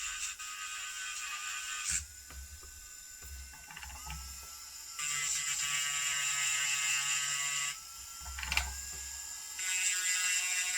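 Electric nail drill motor running with a high whine in three spells, each starting and stopping abruptly, its pitch shifting between them as the speed is changed. It is running again after its faulty power cable was patched.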